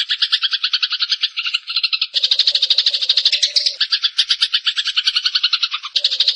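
Eurasian tree sparrow chattering in a fast, unbroken run of chirps, about ten a second, the pattern switching abruptly about two seconds in and again near four seconds, as edited song variations.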